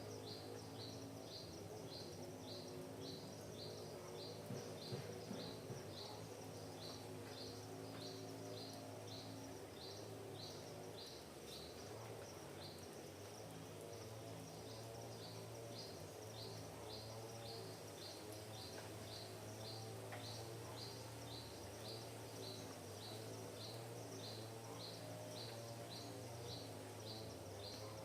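A bird repeating one short, high chirp at an even pace, nearly twice a second, over a steady low motor hum that shifts pitch about twelve seconds in.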